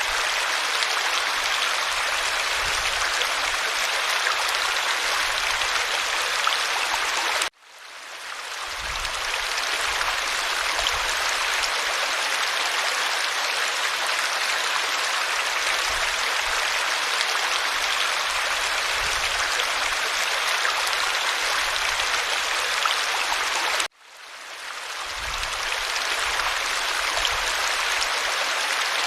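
Creek water running over stones in a steady, even rush. The sound cuts out abruptly twice and swells back over a second or two each time, as at the seams of a looped recording.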